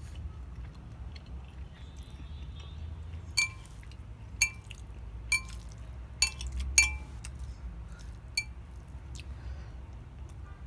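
Cutlery clinking against a dish about six times, each clink ringing briefly, over a steady low hum.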